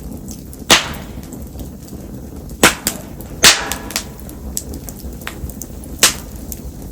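Wood fire of Japanese spindle-tree (mayumi) firewood burning in the rain, with four sharp, loud pops and a few smaller snaps over a steady hiss of rain and flames.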